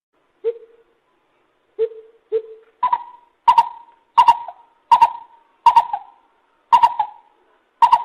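Lesser coucal calling: three lower notes, then a run of about seven higher notes spaced roughly two thirds of a second apart, each starting sharply and dying away quickly.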